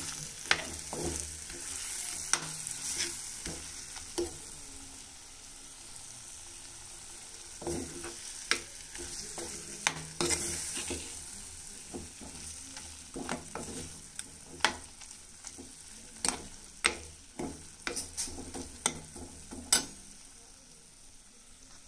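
Pepper chicken sizzling in a hot clay pot as a steel spoon stirs it, with frequent irregular sharp clicks and scrapes of the spoon against the pot.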